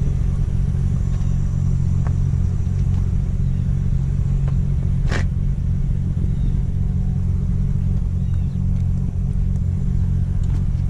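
A Chevrolet SS 1500 pickup's 6.0-litre V8, fitted with an aftermarket turbo kit, idling steadily with a low, even rumble. A single short, sharp click about five seconds in.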